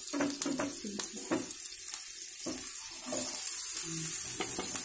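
Garlic and green chillies sizzling in hot oil in a nonstick frying pan, stirred with a spatula, with a few sharp taps about a second in. Chopped onions go into the pan, and the sizzle grows louder about three seconds in.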